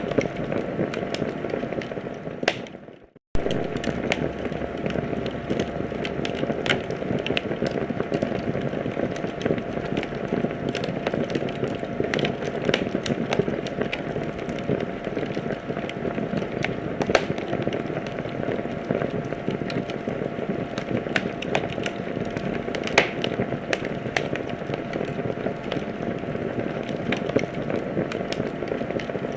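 Wood fire in a fireplace crackling, with a steady hiss and frequent sharp pops and snaps. About three seconds in, the sound fades out and drops to silence for a moment, then starts again.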